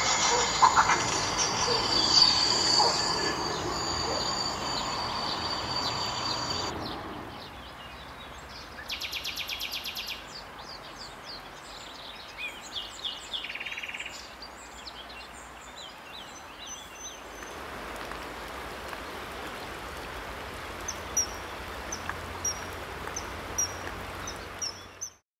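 Wild birds calling and singing over a steady outdoor hiss: a busy, loud stretch of song at the start, a rapid dry trill about nine seconds in, and short high chirps near the end.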